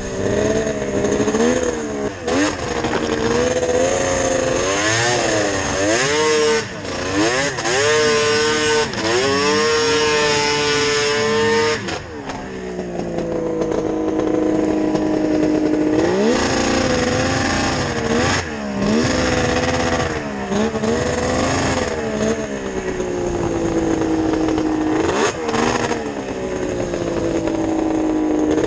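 Yamaha VMAX 700 snowmobile's two-stroke triple on Hauck pipes, revving hard under load while climbing. The pitch swings up and down quickly for the first twelve seconds, dips, then holds high revs in long pulls that sag slowly before picking up again.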